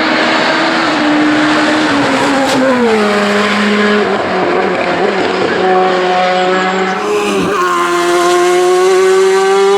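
Hillclimb race car engine under hard driving. The revs fall about two and a half seconds in, hold steady, cut briefly near seven and a half seconds, then climb slowly again.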